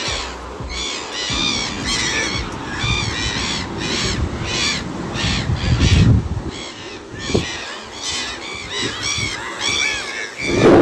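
Birds calling outdoors in a fast series of short, high chirping notes. Low rumbling noise runs underneath, loudest about six seconds in and again near the end.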